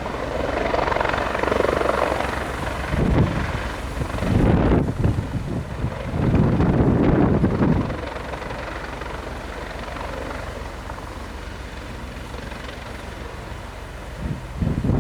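Helicopter running with a steady, rapid rotor beat, buffeted by strong wind gusts on the microphone several times between about three and eight seconds in.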